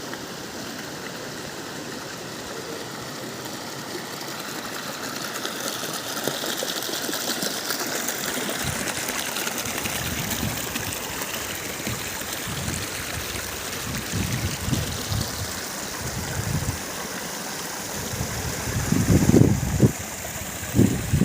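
Waterfall rushing steadily, an even hiss of falling water. In the second half, irregular low rumbling bursts on the microphone come in, loudest near the end.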